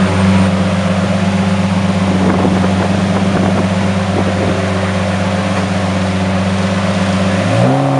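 Lamborghini Murciélago SV's 6.5-litre V12 idling steadily, then a quick blip of the throttle near the end raises its pitch briefly.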